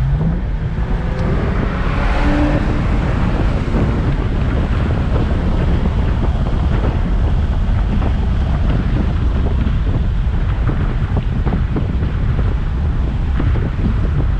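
Infiniti Q50's twin-turbo 3.0 V6 with a muffler delete at full throttle in a rolling pull. Its note rises over the first couple of seconds and then sits under a heavy, steady rush of wind and road noise.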